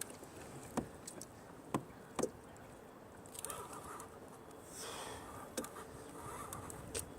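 Scattered light knocks and clicks from the kayak and fishing gear during the fight with a hooked sturgeon, over a faint steady background hiss.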